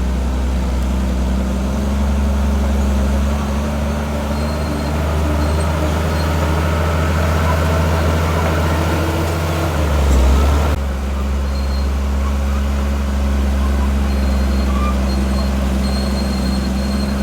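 Heavy diesel engine of earthmoving machinery running steadily, with a brief louder surge about ten seconds in that ends abruptly.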